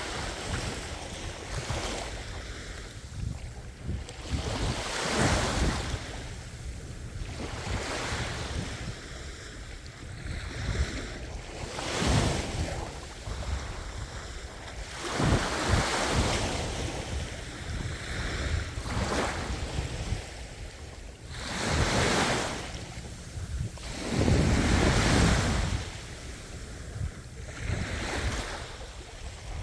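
Ocean waves breaking on a shore: a continuous wash of surf that swells into a loud crash every few seconds, about six times.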